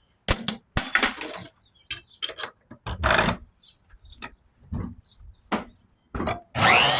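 Short metallic clinks and knocks as copper rods and steel bits are handled and dropped. Near the end a bandsaw motor starts, its whine rising as it spins up and then running steadily.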